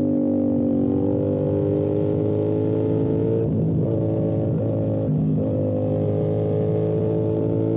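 Motorcycle engine running under load, its droning note creeping slowly upward, with three brief dips in pitch in the middle.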